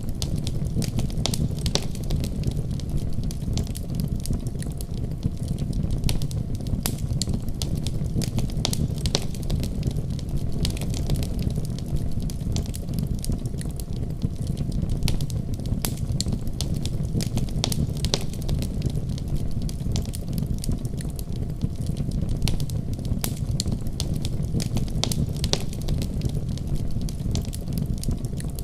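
Wood fire burning in a fireplace: a steady low roar of flames with frequent sharp pops and crackles, several a second.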